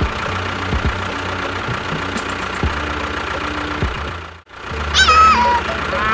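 Tractor engine running steadily at idle with a low, even beat. It breaks off briefly about four and a half seconds in. Near the end a short, high animal call falls in pitch.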